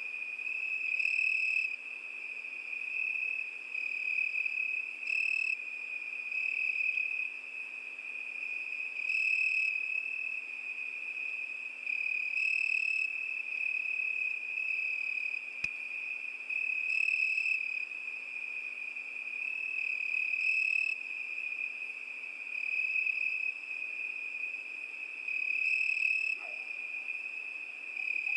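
Cricket singing: a continuous high-pitched trill that swells louder every few seconds, with a single faint click about halfway through.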